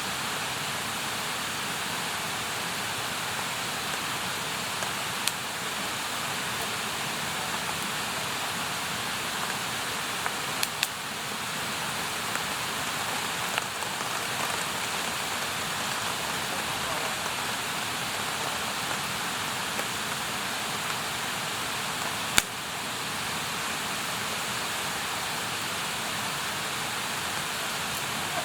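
Campfire burning: a steady hiss with a few sharp crackling pops, the loudest about three-quarters of the way through.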